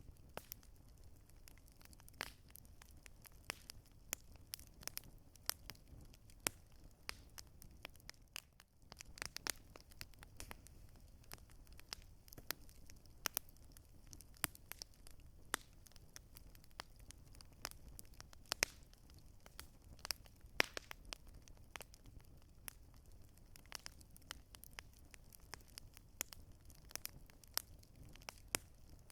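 Wood campfire crackling: irregular sharp pops and snaps of varying loudness over a low, steady rumble of the burning fire.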